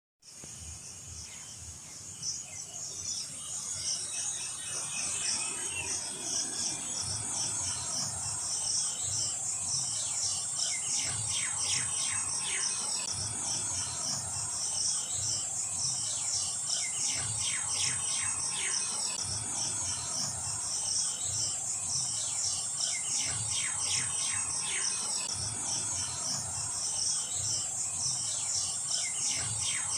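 Insects trilling in chorus: a high, continuous, rapidly pulsing trill that fades in over the first few seconds, with groups of short falling chirps now and then.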